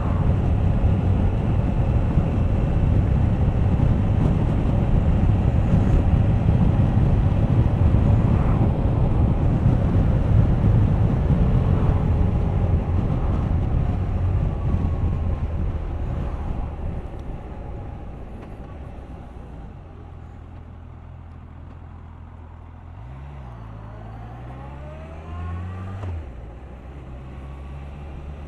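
Suzuki GSX1250FA inline-four motorcycle at road speed, heavy wind noise over the engine. After about 17 seconds it eases off and the wind dies away, leaving the engine running low and steady. A short rise and fall in engine pitch follows around 23 seconds.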